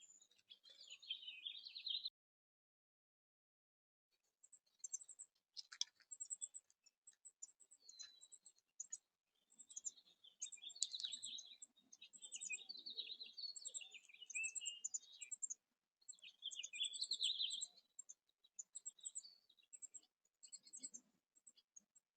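Small backyard songbirds chirping and twittering in repeated bursts, with quick high ticking calls between them. The sound cuts out completely for about two seconds near the start, then the chirping resumes.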